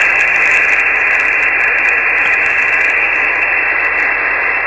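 Single-sideband radio receiver hissing steadily with band noise and static through its speaker, with no station readable, right after the operator unkeys and waits for a reply.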